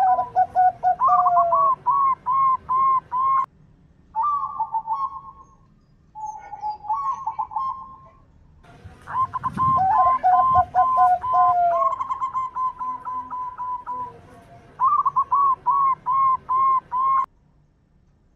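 Zebra doves (perkutut) cooing: several phrases of quick, repeated bubbling notes, with short pauses between them. The calls stop about 17 seconds in.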